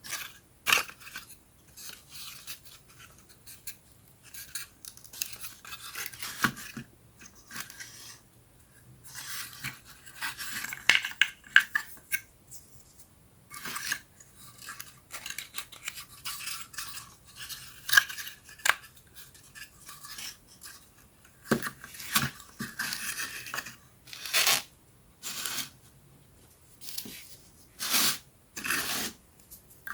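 Pieces of a 3D wooden puzzle being handled and fitted together: irregular clicks and taps with short scraping rubs of wood on wood, several sharper snaps spread through.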